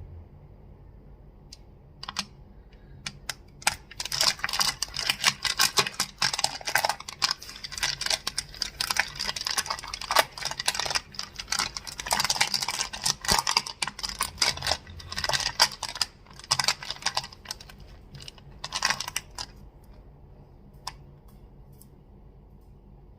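Crystals being tapped and clacked together: a dense run of fast, sharp clicks that starts about two seconds in and thins to a few single clicks near the end.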